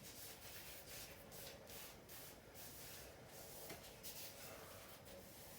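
Faint, irregular rubbing and rustling of a sleeve being pulled by hand onto a refrigerator's copper tube.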